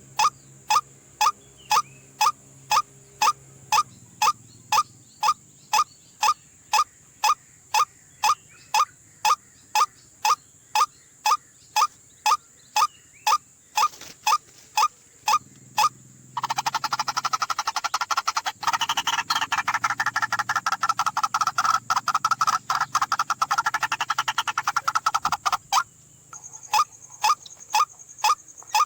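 White-breasted waterhen calling: a short, sharp note repeated very evenly about twice a second. From about halfway to near the end, a louder, denser stretch of calling rises over it, then drops away.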